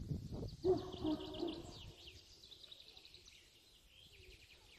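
Songbird singing: quick runs of short high chirping notes, one during the first two seconds and another near the end. Under the first run there is a low rumble and a brief low hum-like sound about a second in.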